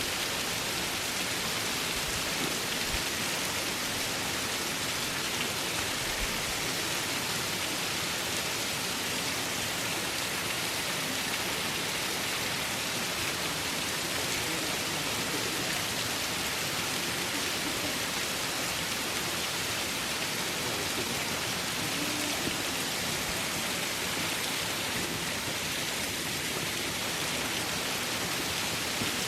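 Waterfall: a steady, unbroken rush of falling water, an even hiss that holds the same level throughout.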